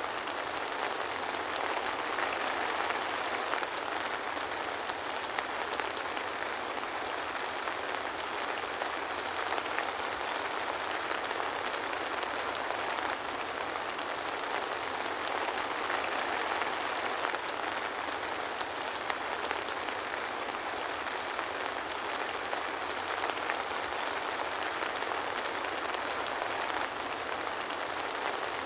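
Steady soft rain falling, an even hiss of many small drops with scattered tiny ticks, and no thunder.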